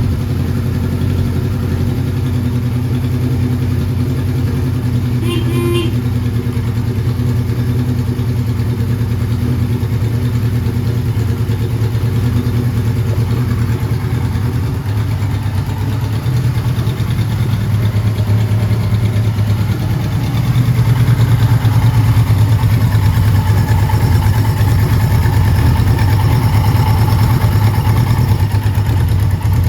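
1979 Kawasaki Z1000ST's air-cooled 1015 cc inline-four engine running at a steady speed, getting louder about twenty seconds in. A short high-pitched sound cuts in briefly about five seconds in.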